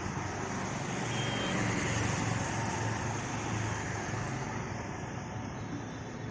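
Road traffic noise, a vehicle passing that swells to its loudest about two seconds in and then fades.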